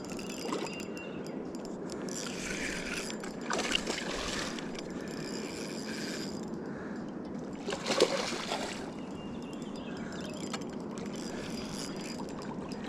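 River water running steadily, with a few brief louder splashy bursts, the loudest about eight seconds in.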